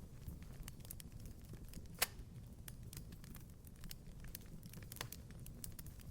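Wood fire crackling in a fireplace: irregular small snaps over a low rumble, with a sharper pop about two seconds in and another about five seconds in.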